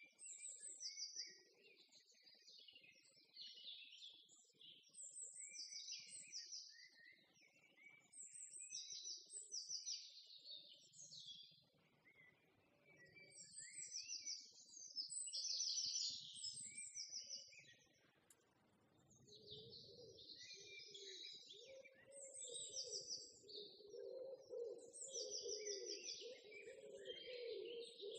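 Small birds chirping and twittering in repeating short, high calls. A lower, wavering sound joins about two-thirds of the way through.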